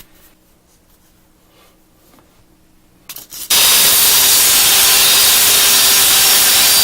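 An electric stone polisher with a diamond sanding pad starts up about three and a half seconds in, after a few short knocks, and runs steadily, grinding down the cured epoxy on a granite countertop seam.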